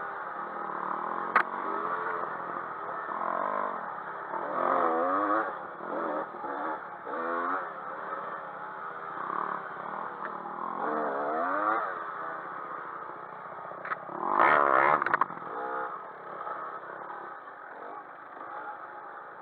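Dirt bike engines revving up and down while riding, the pitch rising and falling again and again, with the loudest burst of throttle about fourteen seconds in. A sharp click comes about a second and a half in.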